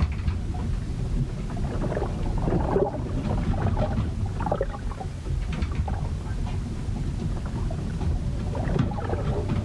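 Sea storm heard aboard a ship: a steady low rumble of wind and water, with scattered short, higher sounds over it.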